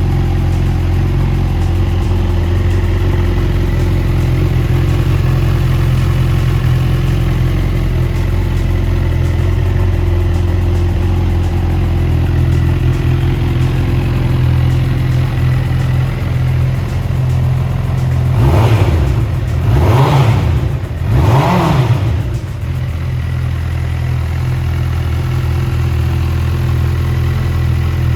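Honda CB1000R's inline-four engine idling through an aftermarket Lxil Hyperlow exhaust, blipped three times in quick succession about two-thirds of the way through, each rev rising and dropping straight back to idle.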